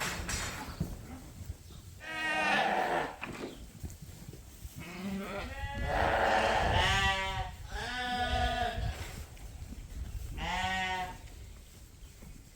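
Suffolk ewe lambs bleating, several long, wavering calls one after another, with low knocking and shuffling underneath.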